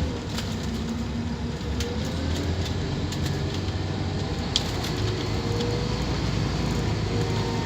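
Scania K230UB Omnilink bus's diesel engine running steadily under way, a low drone with a faint whine and light rattles. There is one sharp click about four and a half seconds in.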